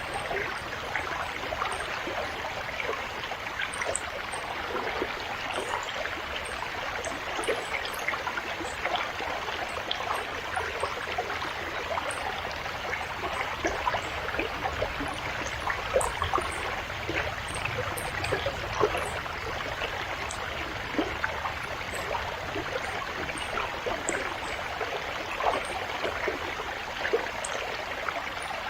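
River water flowing steadily, a continuous babble dotted with many small splashes and gurgles.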